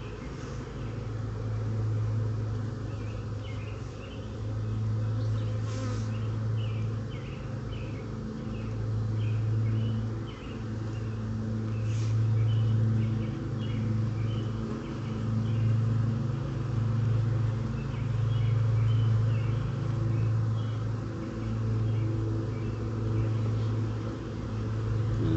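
Honeybees buzzing around an open hive, a low hum that swells and fades every few seconds as bees fly close.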